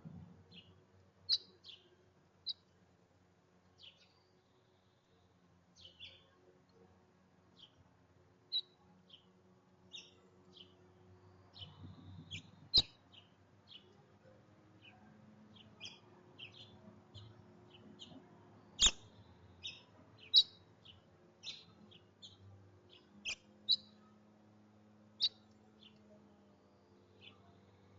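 Small songbirds chirping: short, separate high chirps scattered throughout, coming more often in the second half.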